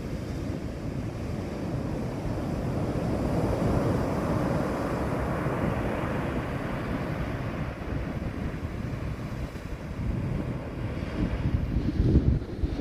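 Ocean surf rushing onto the beach, building to a swell about four seconds in and surging again near the end, with wind buffeting the microphone.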